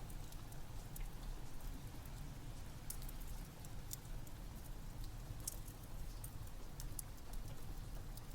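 Steady rain mixed with a wood fire crackling, with irregular sharp pops scattered over a constant low rumble.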